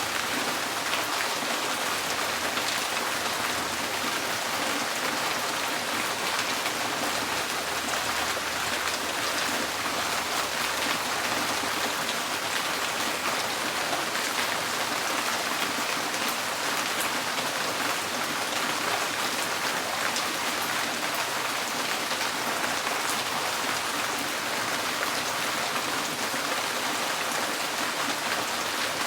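Steady rain drumming on a tin porch roof, a dense even patter of drops with no let-up.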